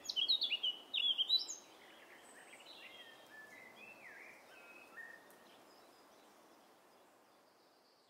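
Birdsong over a steady soft hiss of outdoor ambience: a quick run of chirps in the first second and a half, then fainter scattered calls, all fading out near the end.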